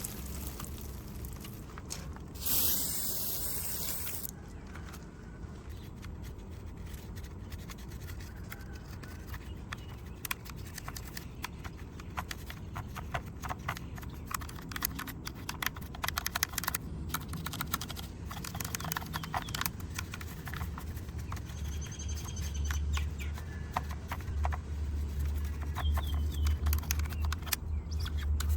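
A small brush scrubbing and scraping at a muddy diecast model car, with many small scratchy strokes and clicks. A short hiss of spray comes about two and a half seconds in, and a low hum grows toward the end.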